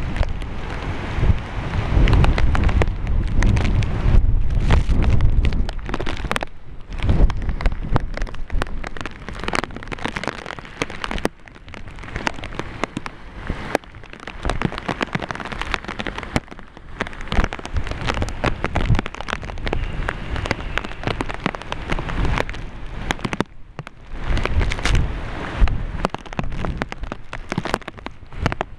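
Heavy hurricane rain falling and splattering in a dense crackling wash, with a strong low rumble between about two and six seconds in.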